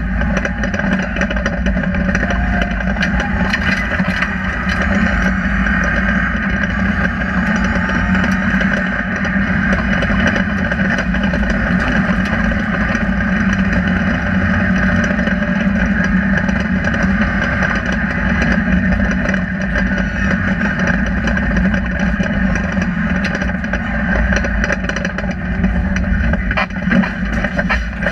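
Rally car's engine running hard at speed, heard from inside the stripped cabin, with road noise and many small clicks and rattles over it.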